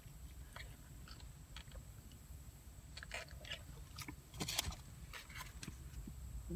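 A person eating close to the microphone: faint chewing with scattered small mouth clicks, busiest around three to five seconds in.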